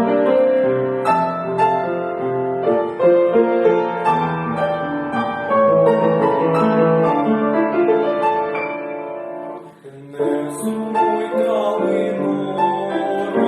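Piano playing a song's introduction, with a short break about ten seconds in before the playing resumes.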